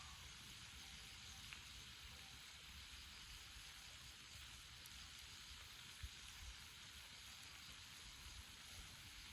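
Faint, steady sizzling of meat on a griddle over a campfire, with a low rumble underneath and a single soft thump about six seconds in.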